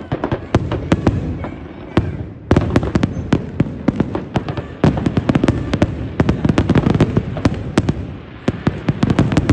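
Fireworks going off in rapid succession: a dense run of sharp cracks and bangs, many a second. They thin out briefly about two seconds in, then come thick again.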